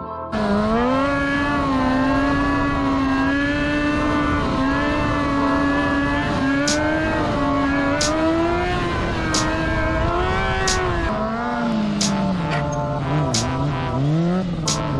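Motorcycle engine held at high, fairly steady revs with small rises and falls as the throttle is worked, then dropping lower and blipping up and down about once a second near the end. Sharp ticks come about every second and a half in the second half.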